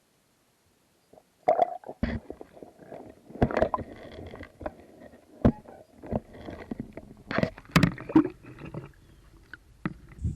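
Muffled water gurgling and irregular hollow knocks and bumps, as heard through a submerged action camera. It starts about a second in, with the loudest knocks near the middle and again past the two-thirds mark.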